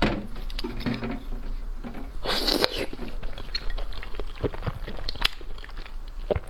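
Close-up eating sounds: a person biting and chewing food, with crunches, wet smacks and small clicks, and a louder noisy burst about two and a half seconds in.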